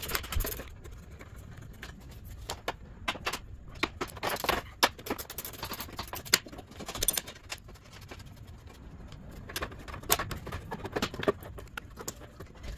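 Hand tool and plastic headlight assembly being worked loose on a 1997 Toyota Corolla: irregular clicks, taps and short scrapes.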